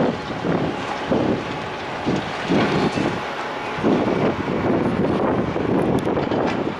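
Wind buffeting the microphone in irregular gusts over a steady rumble of heavy demolition machinery.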